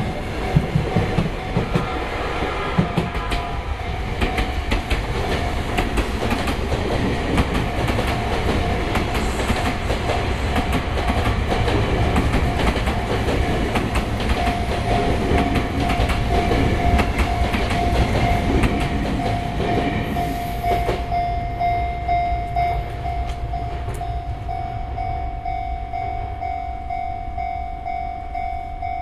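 A Sotetsu Line electric train runs through a level crossing, its wheels clattering over the rail joints. The crossing's warning bell rings on steadily over the train noise. About two-thirds of the way in the train noise drops away, and the bell keeps ringing.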